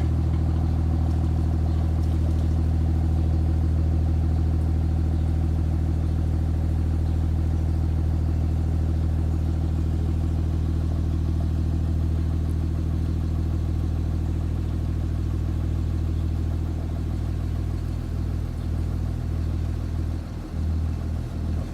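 Cummins diesel engine idling steadily through a stainless steel exhaust whose muffler is being washed out with water to scrub away carbon. From about three-quarters of the way through, the running turns uneven and choppy.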